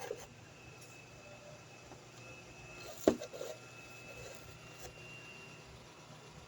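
Quiet room tone with a faint high steady tone, a soft knock at the start and one sharp tap about three seconds in, followed by a few softer knocks.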